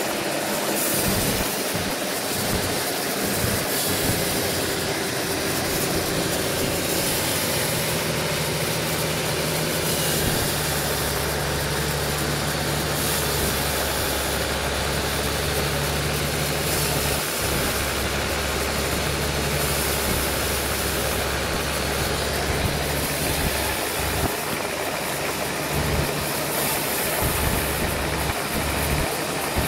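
Sawmill machinery running steadily, with a hissing rush of noise throughout. A deeper engine hum comes in about a third of the way through and drops away near the end.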